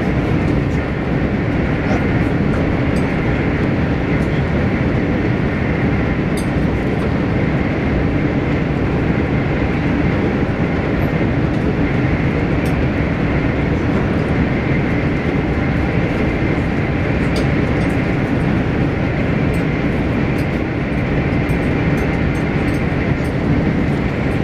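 Steady rumble and rush of a Spanish AVE high-speed train, heard inside the passenger car while it cruises at about 300 km/h.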